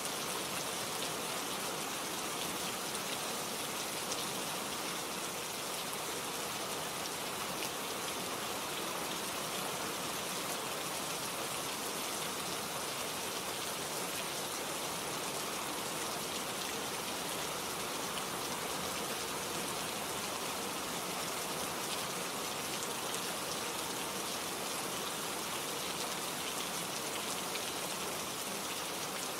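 Steady rain falling, an even hiss of many drops landing on leaves and surfaces, with no let-up.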